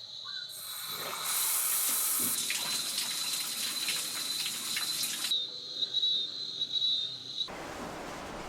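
Water running from a tap for about four seconds, with splashing, over a steady high-pitched whine. The sound cuts abruptly near the end to a softer, even hiss.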